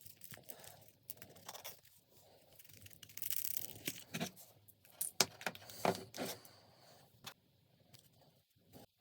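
Paper being handled during a paper-craft: rustling and crinkling, with a longer tearing sound about three seconds in, then a run of sharp crinkles and clicks that dies down near the end.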